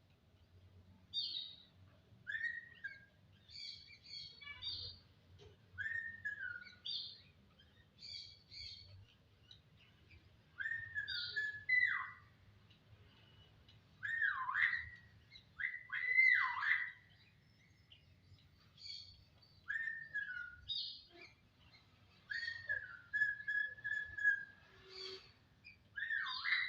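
A jalak (Indonesian starling or myna) singing: clear whistles that slide down in pitch, mixed with short high chirps, in phrases a second or two apart. About two thirds of the way in, one whistle is held steady for about a second.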